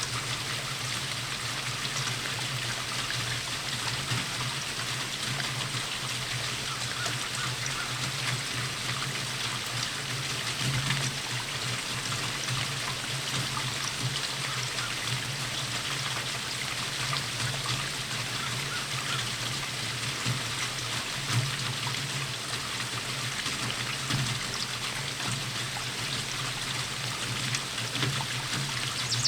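Steady rainfall with water trickling, an even hiss sprinkled with small drips.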